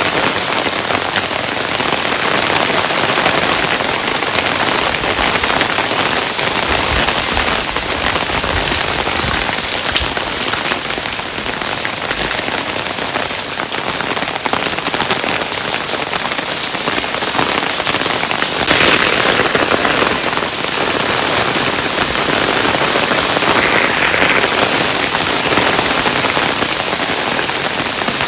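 Hailstones falling and striking a surface in a dense, steady patter of countless small clicks, with a couple of brief louder flurries partway through.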